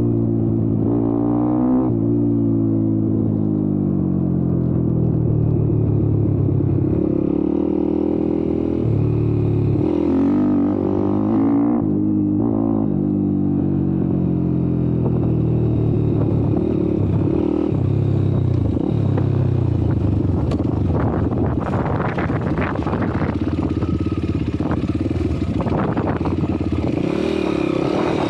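YCF Bigy 190 MX Factory Daytona pit bike's single-cylinder four-stroke engine under riding, its pitch repeatedly climbing as it revs and dropping back between gear changes. A few sharp knocks come about three-quarters of the way through.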